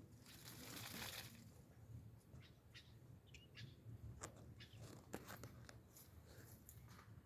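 Small birds chirping faintly with short, scattered high chirps, after a soft rush of noise in the first second.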